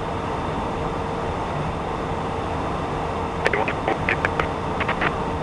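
Steady in-flight cockpit noise of a Beechcraft Premier 1 business jet: airflow and engine hum with a faint steady tone. Past the middle, a quick run of short clicks and crackles.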